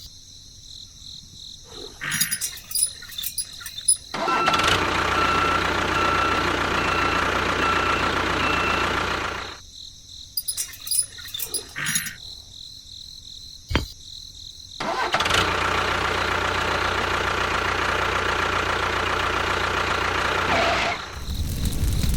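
A small motor running steadily with a faint whine for about five seconds, stopping, then running again for about six seconds. Crackles and clicks come before and between the two runs.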